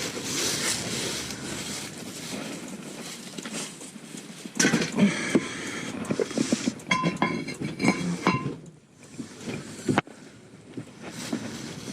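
Rustling and clatter of junk being handled, growing busier about halfway through, with a few short metallic clinks and rings near the end.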